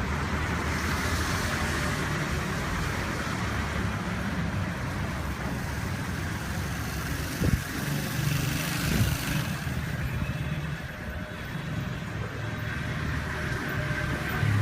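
A 2004 Honda 600 motorcycle's engine running steadily at an even speed.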